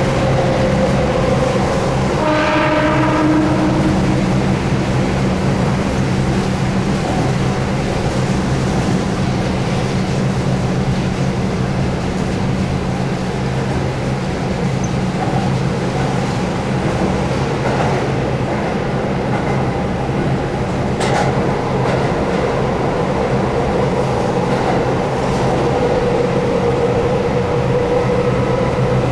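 Keihan 8000 series electric train running, with a steady low motor hum and rail noise. A short horn-like tone sounds about two seconds in, and there is a sharp click around twenty seconds in.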